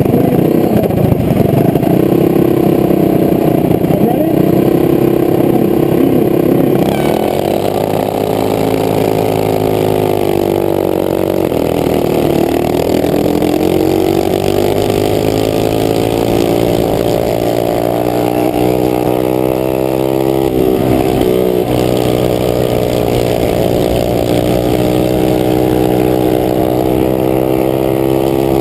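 Small racing minibike engines running hard at high revs, the pitch dipping and climbing again as the bikes lap the circle track.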